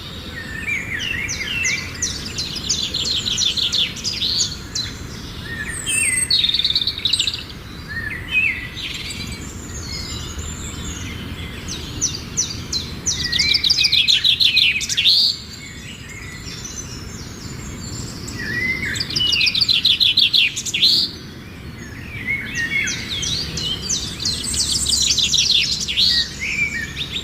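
Songbirds singing: phrases of fast trilled notes and chirps, each a few seconds long, coming again every five or six seconds.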